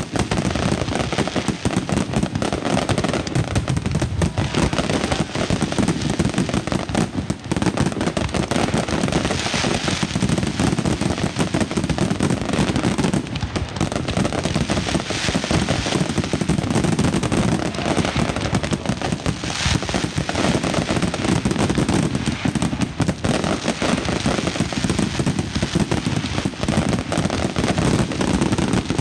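Mascletà firecrackers going off in a dense, continuous barrage of bangs, so fast they merge into one steady rattle.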